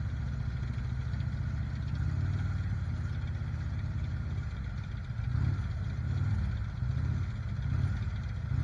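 Motorcycle engines idling in a low, steady rumble, swelling briefly a few times as the revs rise.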